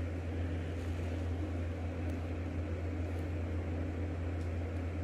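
Steady low hum with a faint even hiss underneath; nothing else happens.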